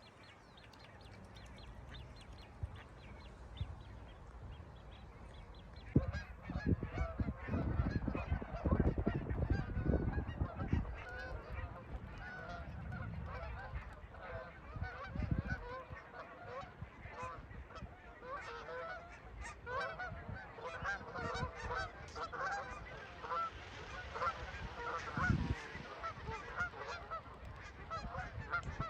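A flock of birds calling, many short overlapping calls at once, starting about six seconds in and continuing densely. A low rumbling noise comes under the first few seconds of the calling.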